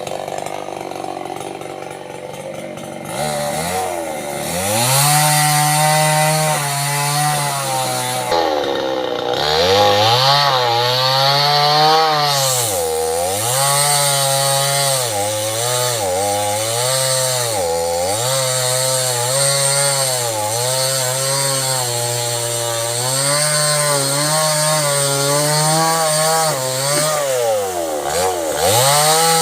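Small chainsaw running at a lower speed, then revved up to full throttle about four seconds in and held there as it cuts into sengon wood. The engine pitch dips briefly several times as the throttle eases off and picks back up.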